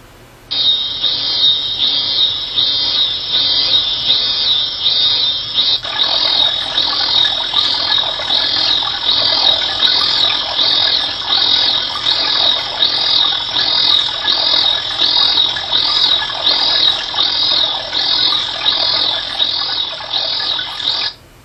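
Recorded natural sound played as an auditory steady-state response (ASSR) stimulus: high-pitched chirps repeating about one and a half times a second, with a fuller, denser layer of sound joining about six seconds in. It starts about half a second in and cuts off suddenly near the end.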